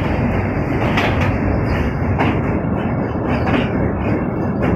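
Passenger train running across a steel girder bridge, heard from aboard. A steady loud rumble is broken by irregular sharp clacks of the wheels over the rail joints.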